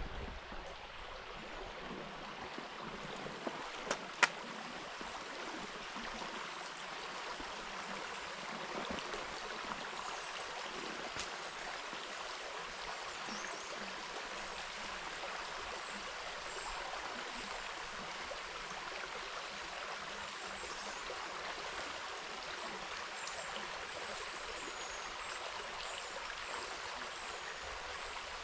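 River water running over shallows, a steady rushing with a couple of sharp clicks about four seconds in and faint high bird chirps in the second half.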